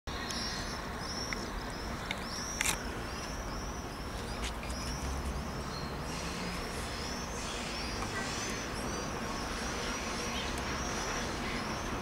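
A small bird chirps over and over, about twice a second, over a steady low rumble. A single sharp click is heard about two and a half seconds in.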